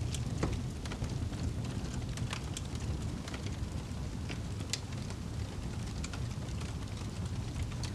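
Wood fire crackling and popping: scattered sharp snaps, a few a second, over a steady low rumble.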